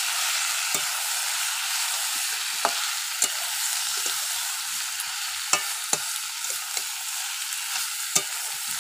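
Potol, potato and spices frying in oil in a metal kadai, a steady sizzle, while a spatula stirs them with irregular scrapes and sharp knocks against the pan.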